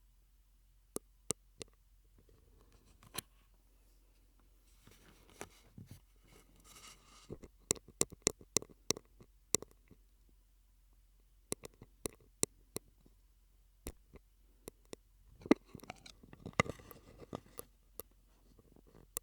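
Mouth sounds made through a drinking straw: scattered sharp, wet clicks and pops. There are two denser stretches of crackly smacking, about five seconds in and again about sixteen seconds in.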